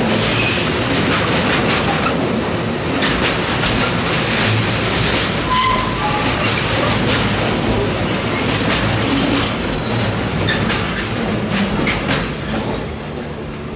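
Train passing close by on the rails, wheels clattering over joints and points with a few brief squeals, the sound fading away near the end.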